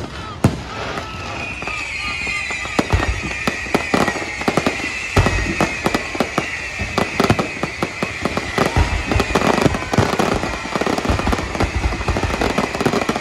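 Fireworks going off in rapid succession: a dense run of bangs and crackles with heavier booms among them. Over it a high whistle sounds and slowly falls in pitch.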